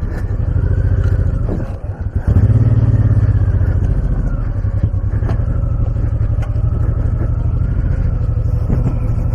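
Honda VTX1800C's V-twin engine running under load as the cruiser rides through sand, easing off briefly about two seconds in, then pulling harder again.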